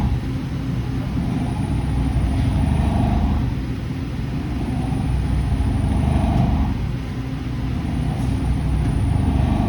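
Hurco CNC milling machine running, a steady low machine hum under a cutting sound that swells and fades about every three seconds, with a thin high whine coming and going with it.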